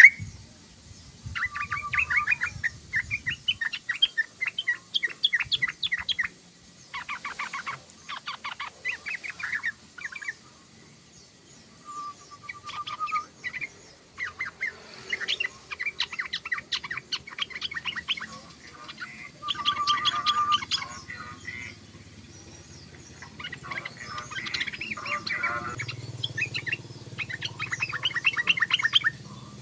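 Yellow-vented bulbul singing: repeated phrases of rapid chattering notes, each lasting a second or few, with short pauses between. Some phrases open with a brief steady note.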